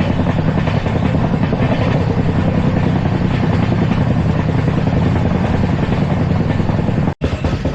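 LHB passenger coach running at speed: a steady, loud rumble and roar of wheels on rails. The sound drops out for an instant about seven seconds in.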